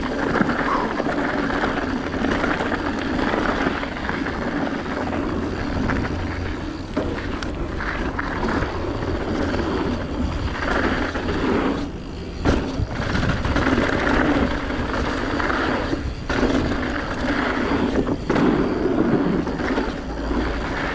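Mountain bike descending a rough dirt trail: a steady rush of wind buffeting the camera microphone over the tyres rolling on dirt and rock and the bike rattling, with a few brief drops in the noise.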